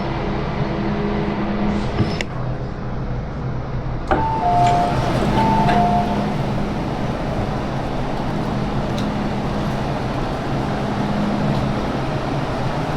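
MTR Island Line M-train running, with a steady rumble and hum. About four seconds in, a click is followed by a two-note onboard chime, high then low, played twice.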